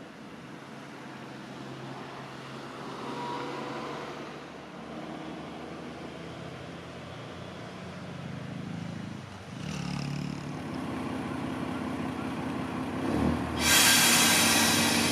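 Akechi Railway diesel railcar running, its engine hum growing slowly louder as it nears, then a sudden loud rush of train noise near the end as it comes close.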